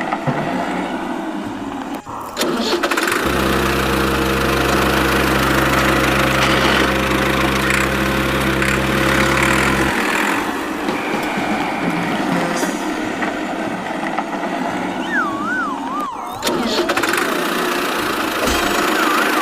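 Tractor-style engine running, with a steady low hum that holds for several seconds in the middle and then drops away. Abrupt cuts break the sound twice. A warbling, wavering tone joins near the end.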